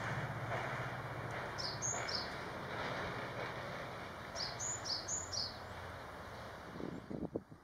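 A small wild bird calling in short, high, downward-slurred chirps, in groups of two or three, over a steady outdoor background noise with a low hum. A few soft knocks near the end.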